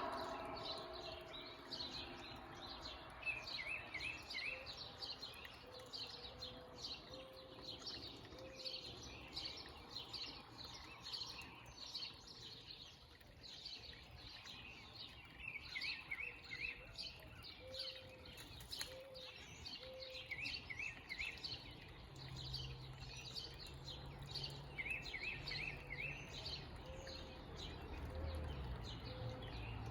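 Several backyard birds chirping and calling: many short high chirps throughout, a short phrase of a few quick notes repeated four times, and soft low notes now and then.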